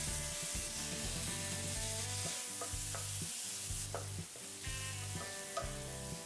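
Chopped tomato sizzling in hot oil with fried onions and spices in a stainless steel pan while a wooden spatula stirs it. The spatula clicks against the pan a few times.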